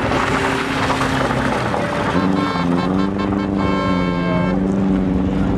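Car engine held at high revs while drifting on loose gravel, with a steady rush of tyre and gravel noise. About two seconds in, a loud pitched tone with many overtones joins for around two seconds and then stops.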